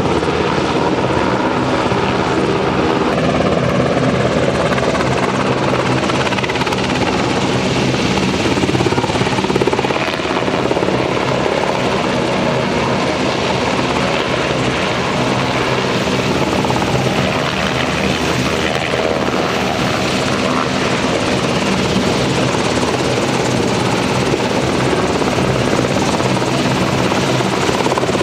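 JASDF UH-60J rescue helicopter in flight, its twin turboshaft engines and main rotor running loud and steady.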